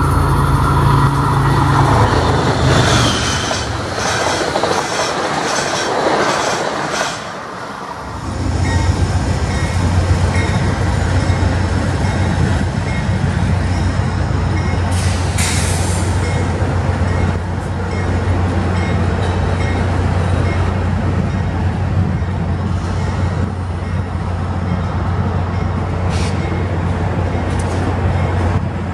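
An MBTA commuter train's horn sounds and the train passes, its wheels rolling and clacking over the rail joints. The sound then cuts to a steady low drone from two Amtrak P42 diesel locomotives running as their train of passenger cars moves by, with two brief high wheel squeals in the second half.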